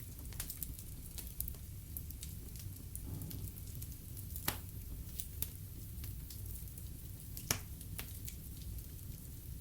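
Log fire crackling and popping over a steady low rumble, with irregular sharp snaps and two louder pops partway through.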